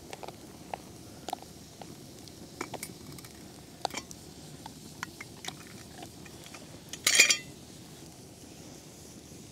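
A metal spoon clinking and scraping against camp cookware as hot goulash is served and stirred, in light scattered clinks. About seven seconds in there is one short, louder breathy hiss.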